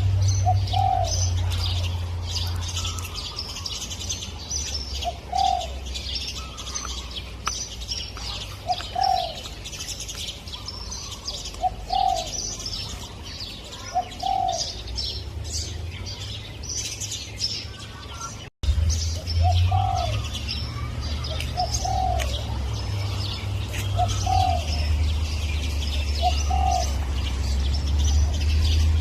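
Spotted dove cooing, a short rounded note every two to three seconds, over a constant chatter of high chirps from small birds and a low steady hum. The sound cuts out for an instant just past the middle.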